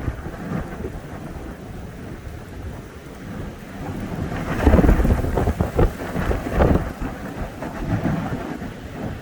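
Strong wind gusting and buffeting the microphone in a deep, rumbling rush, with the strongest gusts about four and a half to seven seconds in.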